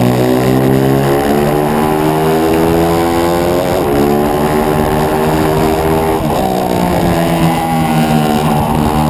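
On-board 140 cc single-cylinder four-stroke pit bike engine at racing revs, its pitch climbing then dropping sharply twice, about four and six seconds in, as it shifts up, before holding fairly steady near the end.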